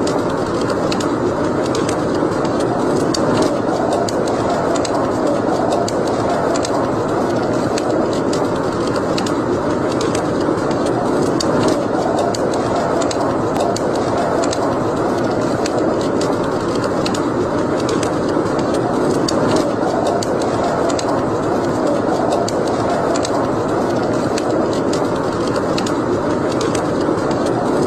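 Wood fire burning in a fireplace: a steady rushing hiss of flames with frequent small crackles and pops from the burning logs.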